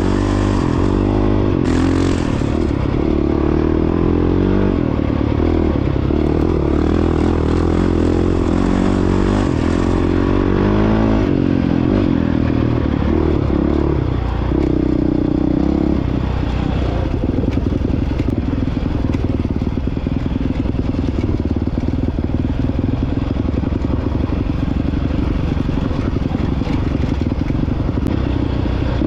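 2022 Honda CRF450X's single-cylinder four-stroke engine running under way, its pitch rising and falling repeatedly with throttle and gear changes through the first half, then holding steadier.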